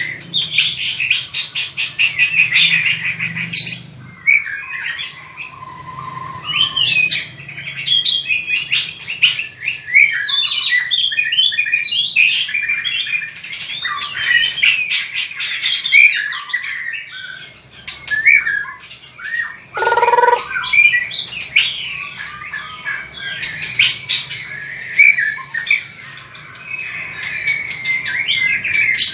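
White-rumped shama singing a fast, varied song of rattles, whistles and harsh notes, with one lower falling whistle about two-thirds of the way through.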